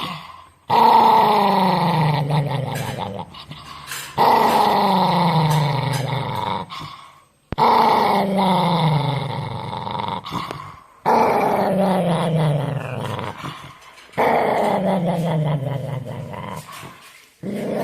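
A dog growling in a run of long, drawn-out growls, each about three seconds long, starting suddenly and sliding slowly down in pitch, with short breaks for breath between them.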